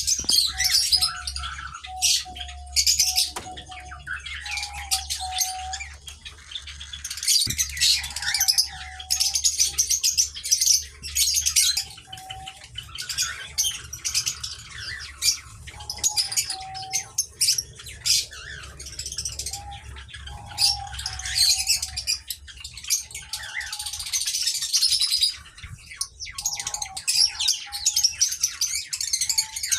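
Aviary birds, ino cockatiels among them, chirping and calling without pause: a busy mass of rapid high chirps with short, lower whistled notes recurring every second or two.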